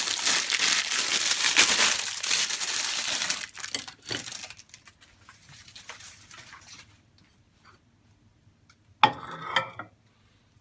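Plastic food wrapper crinkling and crumpling as it is torn open and worked off a frozen patty, dense for the first three and a half seconds, then thinning to scattered small rustles. A short clatter about nine seconds in.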